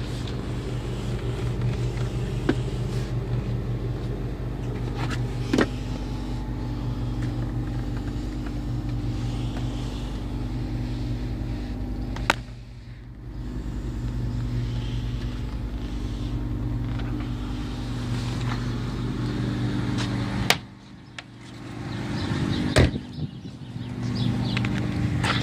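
1984 Mazda RX-7's two-rotor Wankel rotary engine idling steadily, with a few sharp knocks about halfway and near the end, when the engine sound briefly drops away.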